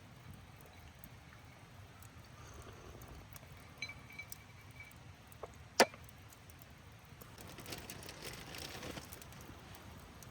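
Wood campfire crackling softly with scattered small ticks, and one sharp pop about six seconds in; a short rustle follows near the end.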